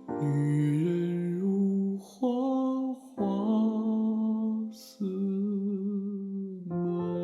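A solo voice singing long, drawn-out notes of a slow Mandarin ballad over a soft backing track, in three or four phrases with short breaths between them.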